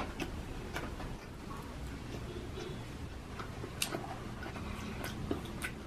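Eating sounds: a person chewing fast food, with scattered sharp irregular clicks and smacks. There are a couple in the first second and more in the last two seconds.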